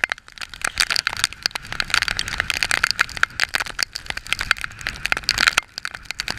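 Heavy rain drumming on the camera as a rapid, dense crackle of drop strikes, over a low rumble of wind and road noise from riding at speed.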